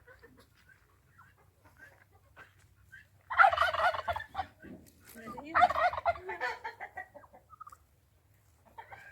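A turkey gobbling twice, each gobble a rapid rattling call about a second long, the second following about two seconds after the first.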